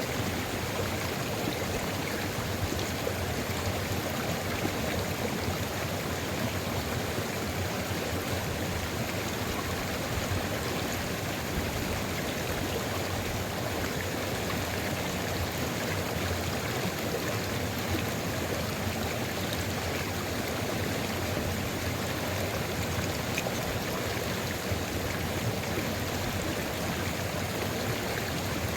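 Steady running water of a sulfur river flowing over rocks, an even, continuous rush without pauses.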